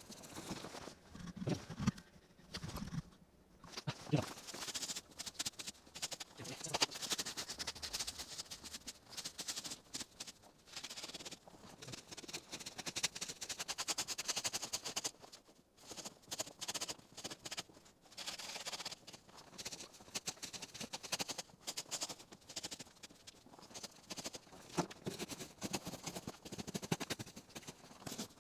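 Wood fire crackling, with many irregular sharp snaps and pops and a few duller thumps in the first few seconds.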